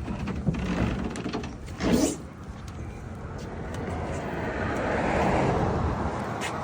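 A car passing on the street, its noise swelling and fading over the second half, with scattered small clicks and a short knock about two seconds in.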